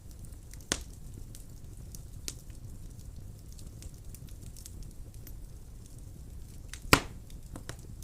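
Wood fire burning in a fireplace: a steady low rumble of flames with scattered small crackles, and two sharp pops, one about a second in and a louder one near the end.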